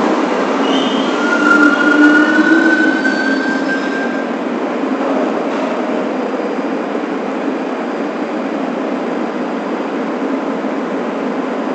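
New York City subway train on the 1 line running along the track, a steady loud rumble and rattle. A few thin whining tones ride over it for the first four seconds, one of them rising slightly, then the running noise carries on evenly.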